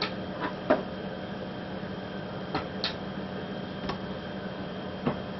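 A steady hum with a few light clicks and knocks scattered through it, the loudest about three-quarters of a second in.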